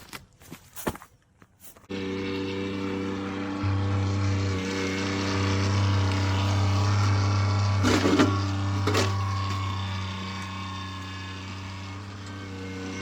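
Kioti compact tractor's diesel engine running at a steady speed, starting abruptly about two seconds in after a few light clicks. Two sharp knocks about a second apart are heard near the middle.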